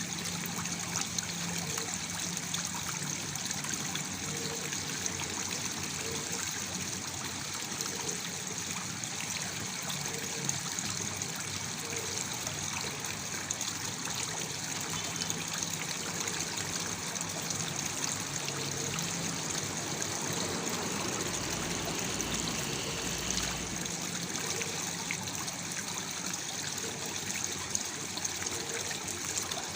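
Waterfall: water falling and splashing steadily, with small bubbling notes in the low range.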